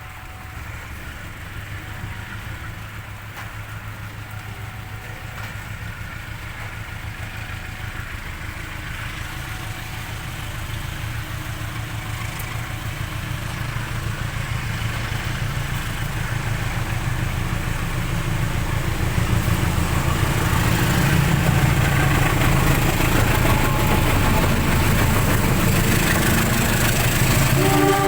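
Diesel multiple unit (KRD) approaching, its underfloor diesel engine running with a low hum that grows steadily louder.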